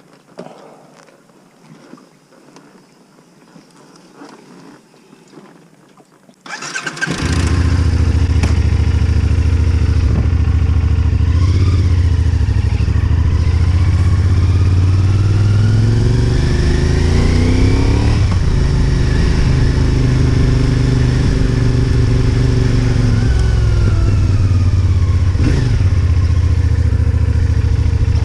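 Faint clicks for about six seconds, then the 2025 CFMoto 450SR S motorcycle's parallel-twin engine starts with a sudden loud burst and keeps running. Its pitch climbs slowly, drops sharply about two-thirds of the way through, then rises and falls again.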